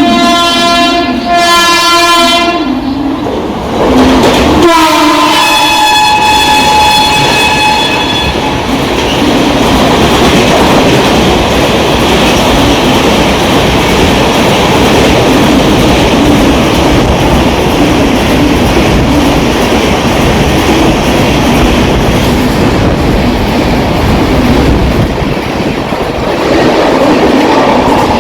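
Indian Railways train horn sounded in two long blasts, the second sliding down in pitch as it starts, followed by the train passing with wheels clattering over the rail joints.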